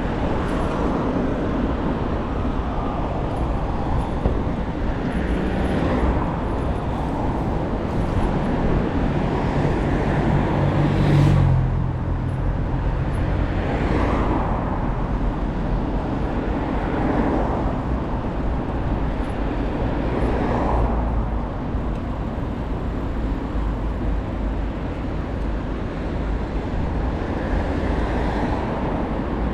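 Urban street traffic heard from a moving bicycle: a steady low rumble with several vehicles passing. The loudest engine swells up and fades about a third of the way in.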